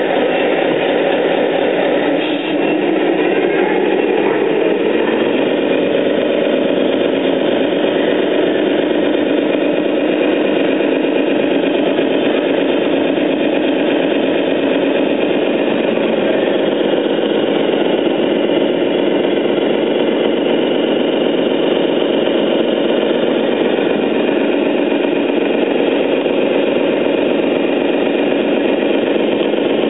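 Radio-controlled Scania 10x6 model truck running, its drive sound rising in pitch about two to five seconds in as it speeds up, then holding a steady pitch.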